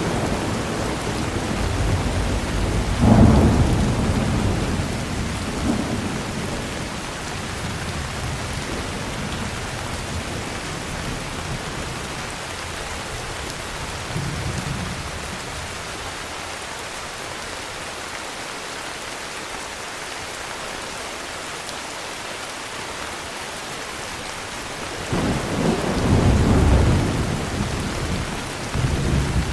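Heavy rain hissing steadily, with rolls of thunder rumbling twice, the first a few seconds in and a louder one near the end.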